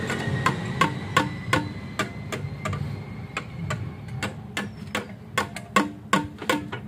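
14 hp Lister diesel engine running slowly just after starting: a steady low rumble with a sharp, even knock about three times a second.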